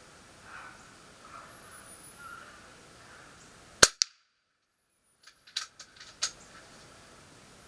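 Kral Arms Puncher Empire XS .22 PCP air rifle firing a single shot: one sharp crack about four seconds in, with a second, lesser crack a fraction of a second later. A short run of mechanical clicks follows about a second and a half after.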